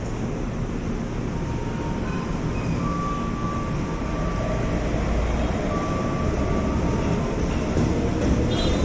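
KRL Commuter Line electric multiple-unit train running past along the station track. Its wheels rumble steadily on the rails, growing gradually louder as the cars move by.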